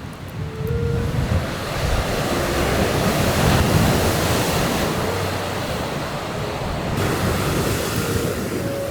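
Sea waves surging and breaking on the shore, mixed with wind, swelling to their loudest about halfway through.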